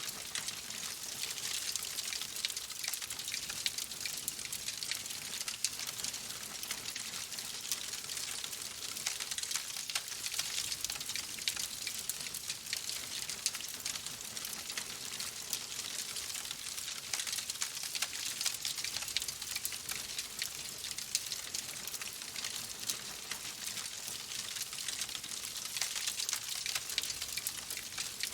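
Wood fire crackling in a fireplace: a steady hiss thick with small, sharp pops and snaps throughout.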